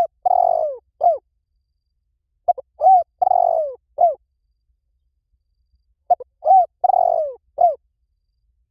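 Spotted dove cooing its song: phrases of a few short coos, a longer rough coo and a final falling coo, repeated about every three and a half seconds, twice in full after the tail of one phrase at the start. It is the bird's call as used to lure spotted doves in.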